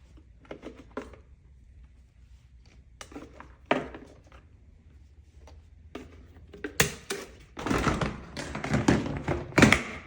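Scattered knocks and taps, growing busier and louder in the last three seconds.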